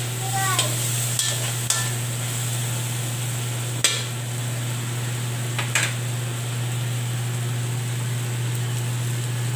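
Chicken pieces and vegetables sizzling in an aluminium wok, with a metal ladle stirring and knocking against the pan a few times. The loudest knock comes about four seconds in, over a steady low hum.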